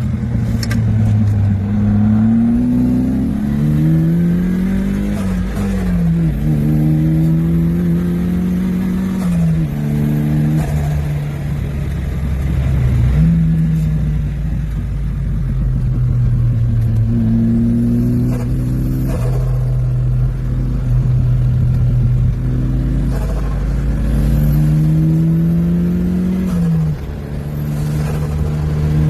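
Turbocharged Nissan SR20DET four-cylinder in a Toyota Celica TA22, under hard throttle. The engine note climbs in pitch again and again and drops sharply at each gearshift or lift, about half a dozen times.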